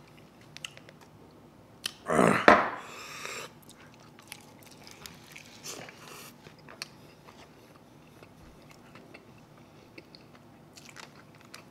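Close-miked mouth sounds of eating chicken wings: small clicks and smacks of biting and chewing, with one much louder burst of mouth noise about two seconds in.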